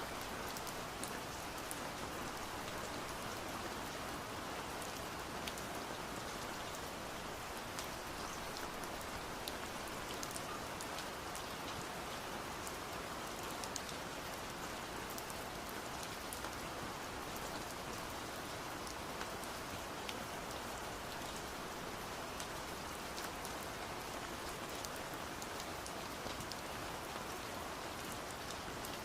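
Steady rain, a constant hiss with many small sharp taps of drops striking window glass.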